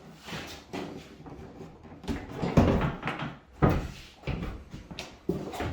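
Hood of a 1991 Toyota Supra being set on and lowered to test whether the coil packs clear it: a series of metal clunks and knocks, the loudest about two and a half seconds in.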